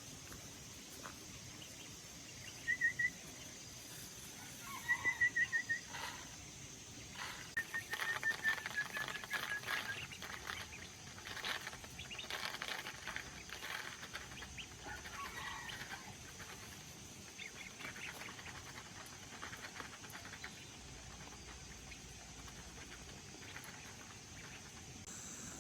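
A bird calling in short runs of quick, clear notes: a brief burst about three seconds in, a longer run about five seconds in, and a drawn-out run that falls slightly in pitch. A steady high insect drone and scattered light clicks sound under it.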